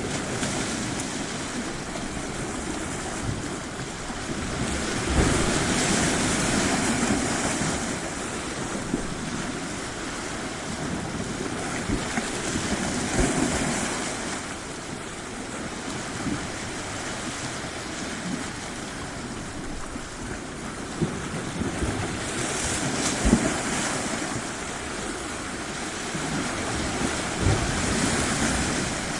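Ocean surf washing onto a shore, the rush of water swelling and fading every several seconds as waves come in.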